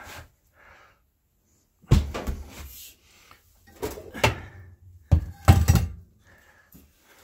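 Sheet-metal clanks and knocks as a spring-loaded GE oven door hinge is worked into the grooves of the door. Three bursts of clattering come about two, four and five and a half seconds in, the last the loudest.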